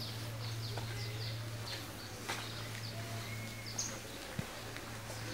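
Small birds chirping with short, quick falling calls, repeated at irregular intervals, over a steady low hum.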